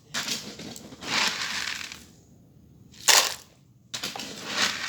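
A dog crunching and chewing hard food in irregular bites, with the sharpest crunch about three seconds in.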